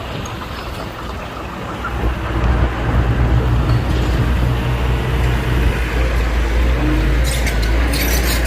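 Heavy diesel engine of earthmoving machinery running steadily, growing louder about two seconds in. A quick series of clicks and clatters near the end.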